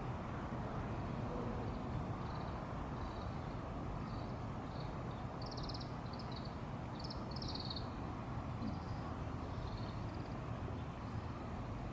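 A run of short, high chirping animal calls, strongest in the middle, over a steady low outdoor rumble.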